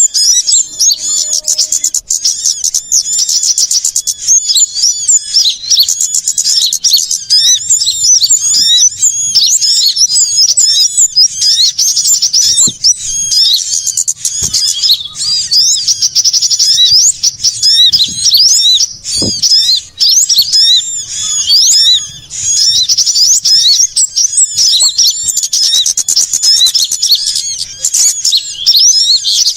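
A dense, unbroken chorus of many small songbirds chirping and twittering over one another in quick, high-pitched notes. It is a bird-lure recording meant to draw small birds down to a trap.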